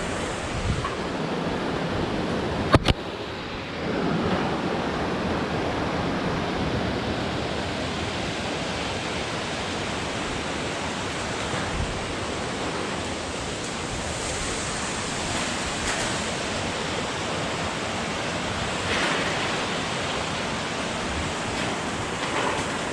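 Steady rush of water from a mountain valley stream, with one sharp click about three seconds in.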